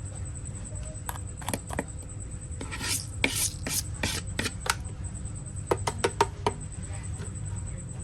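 Short scraping and rubbing strokes against the small hard body of a diecast model bus as it is cleaned. There are a few strokes in the first two seconds, a quicker run of them through the middle, and a fast cluster of clicks about six seconds in, over a steady low hum.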